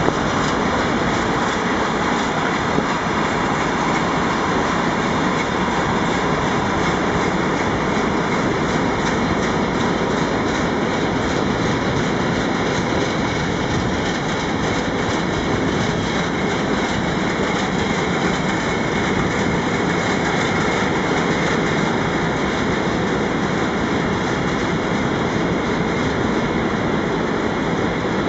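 A long freight train of hopper wagons rolling past: a steady, even noise of steel wheels running on the rails.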